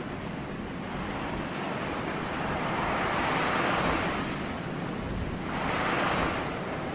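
Ocean waves washing on a shore, a steady rush of surf that swells twice, about three seconds in and again near six seconds.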